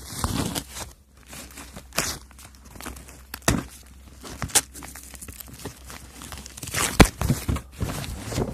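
Parcel wrapping being torn and crumpled by hand, in irregular rustles with several sharp knocks from handling the package.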